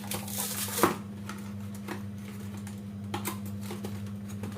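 Scattered light clicks and knocks of kitchen items being handled, over a steady low hum. The loudest knock comes just under a second in.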